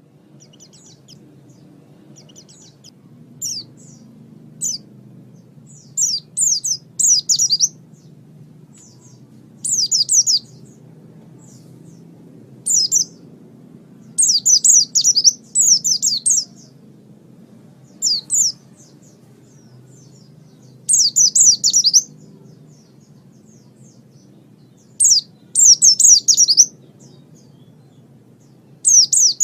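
A small songbird singing in repeated short phrases of rapid, high, downward-sweeping chirps, with pauses of a second or more between phrases, over a faint steady low hum.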